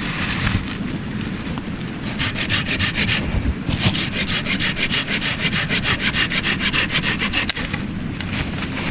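Hand saw cutting through wood in quick back-and-forth strokes, about three a second, with a short pause a little over halfway through.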